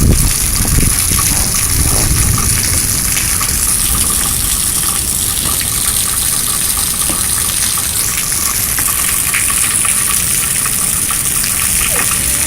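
Heavy rain pouring down: a loud, steady rush of water.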